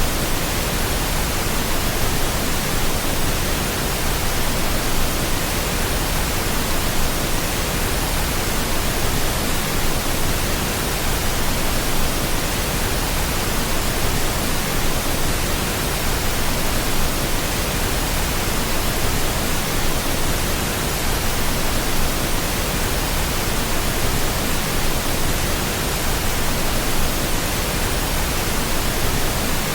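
Steady pink noise: an even, unchanging hiss spread across all pitches, with no tones, clicks or breaks.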